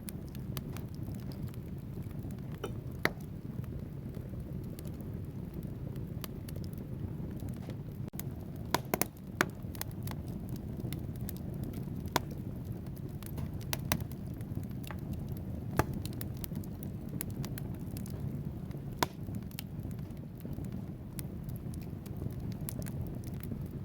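Wood fire burning in a fireplace: a steady low rumble of flames with logs crackling and popping, sharp pops scattered irregularly, a cluster of them about nine seconds in.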